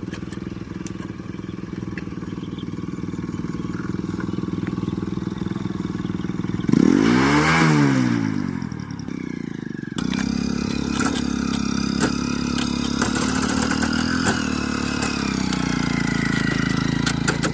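An engine running steadily. About seven seconds in, a louder vehicle passes close by, rising and then fading. About ten seconds in, the sound switches abruptly to a different engine note with light clattering.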